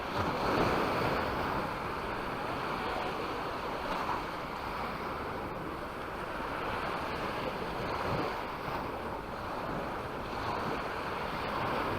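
Sea waves breaking and washing up the beach, swelling every few seconds, with wind rumbling on the microphone.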